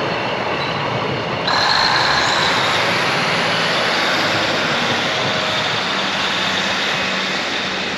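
Train running close by, a steady noisy rumble; about a second and a half in it suddenly gets louder and several steady high whines come in, then it slowly eases off.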